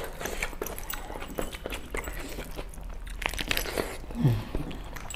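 Close-up eating sounds of a person biting and chewing cooked meat held in the hand, with many short mouth clicks and smacks. A brief low falling sound comes about four seconds in.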